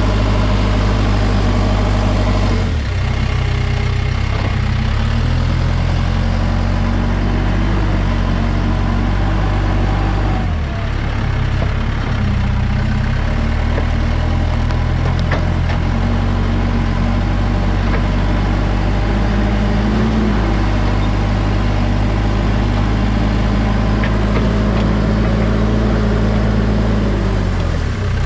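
Backhoe's diesel engine running steadily, its note shifting briefly a few times.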